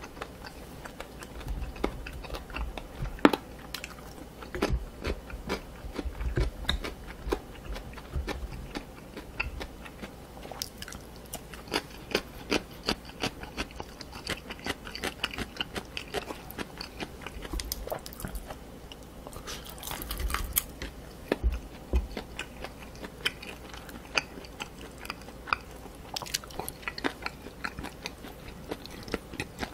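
Close-miked chewing of spicy pork cartilage and chicken feet: irregular wet crunches and clicks as the cartilage is bitten through, the loudest crunch about three seconds in.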